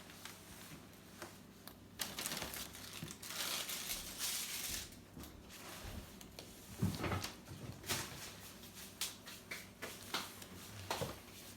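A bag crinkling and rustling in irregular bursts, with scattered small clicks and knocks.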